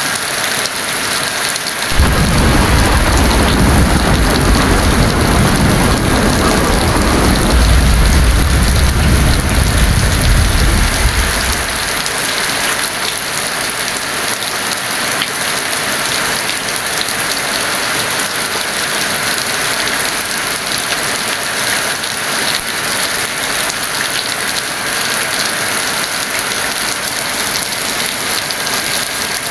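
Heavy rain falling steadily, with a roll of thunder that breaks in suddenly about two seconds in, swells, and dies away after about ten seconds.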